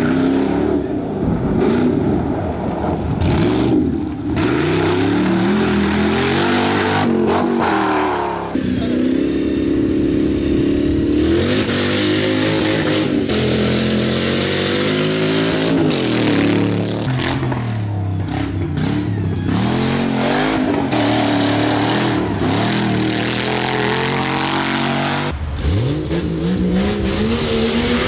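Off-road race vehicles' engines revving hard on a dirt course, the pitch climbing and dropping again and again through gear changes. It switches abruptly several times from one vehicle to the next.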